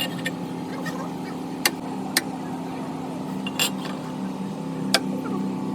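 Steady machine hum with a few sharp metallic clinks of tools on metal, four of them spaced about a second or more apart.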